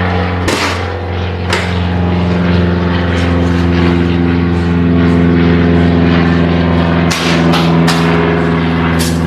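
A loud, steady mechanical drone with a few sharp clicks and knocks over it: one about half a second in, one about a second and a half in, and a couple near the end.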